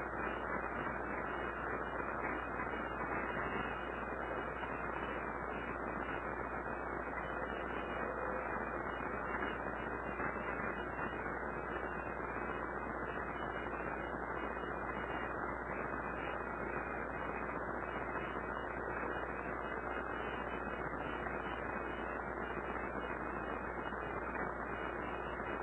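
Steady background hiss with a low electrical hum, unchanging throughout, with no distinct sounds over it.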